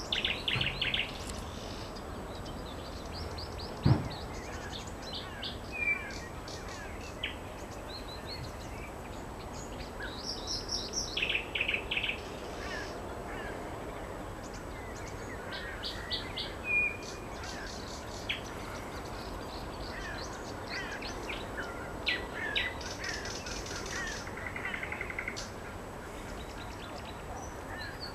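Nightingale singing: phrases of rapid repeated notes and trills, separated by short pauses, over a steady background hiss. A single sharp knock about four seconds in.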